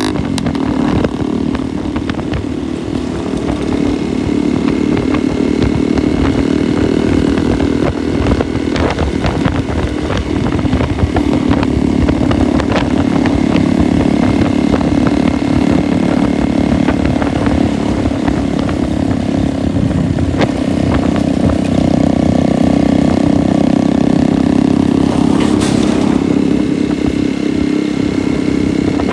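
Motorcycle engine running steadily while riding, its pitch shifting a little a few times as the revs change.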